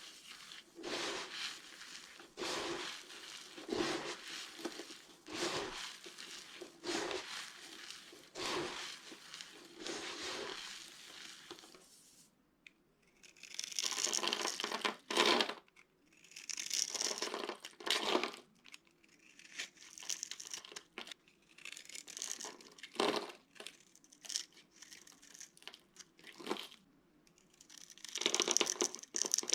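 Dry soap being cracked and crushed by hand: a quick run of crisp cracks and crunches for the first dozen seconds, then, after a short pause, separate grainy crumbling bursts of about a second each, brighter and hissier.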